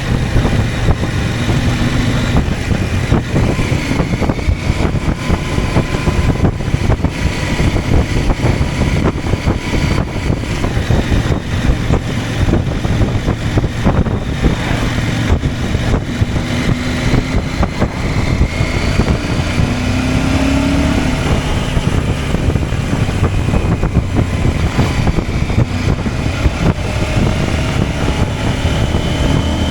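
CFMOTO 800MT Touring's parallel-twin engine running as the motorcycle is ridden, mixed with dense road and wind noise. The engine note rises and falls slightly.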